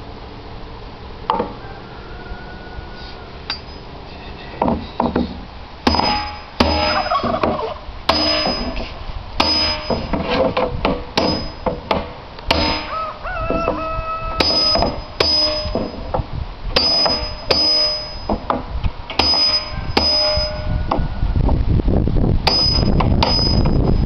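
Hammer blows driving steel hoops down a wooden wine barrel to tighten the staves. A few scattered knocks give way, about six seconds in, to a steady run of sharp, ringing metal strikes about one to two a second.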